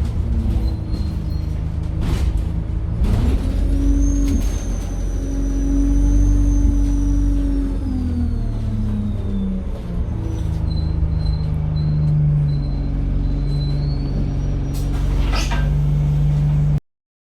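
Alexander Dennis Enviro 200 bus engine running, with a loud high turbo whistle that holds and then falls in pitch, then returns more faintly. A few short sharp sounds break in, the last and longest near the end, before the sound cuts off suddenly.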